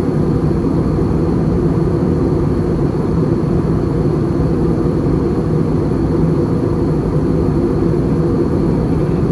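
Steady cabin noise inside an Airbus A320 in flight: a dense, even rumble of engine and airflow, with faint steady high-pitched tones above it.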